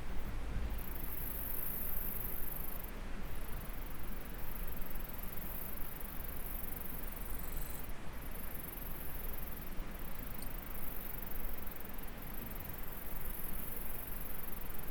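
A steady high-pitched insect shrill that breaks off briefly a few times, over the even rush of flowing stream water.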